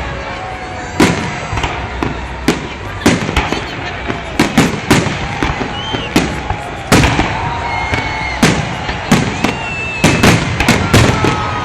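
Festive fireworks salute: a rapid, irregular volley of sharp shell bursts, several a second at times, with thin whistling tones held or slowly falling in pitch between the bangs.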